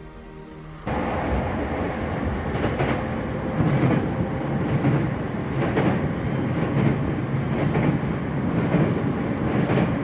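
A vehicle ride: a steady, loud rumble that starts suddenly about a second in, with scattered knocks and rattles throughout.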